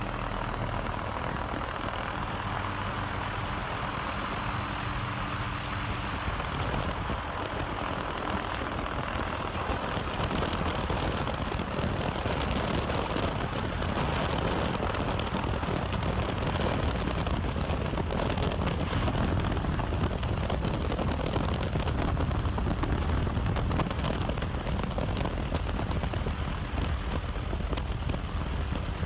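Steady engine drone with a rushing hiss. A low hum of several even tones stands out in about the first six seconds, then blends into a thicker low rumble.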